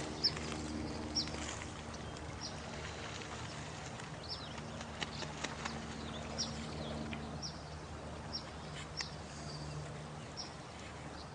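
Night nature ambience: running water under a low steady drone, with short high chirps sliding downward about once a second.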